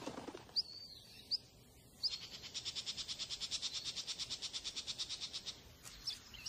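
Birds chirping: a few short high chirps, then a fast, even trill of about ten notes a second that starts about two seconds in and runs for some three and a half seconds, followed by a few more scattered chirps.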